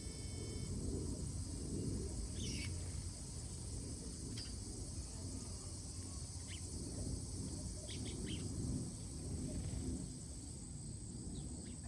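A steady high insect drone with a handful of short, scattered bird chirps, over a low rumble.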